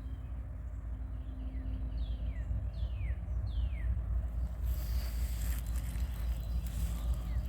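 A bird gives a run of short calls that slide downward in pitch, over a steady low outdoor rumble. About halfway through, a rustling hiss with scattered clicks comes in.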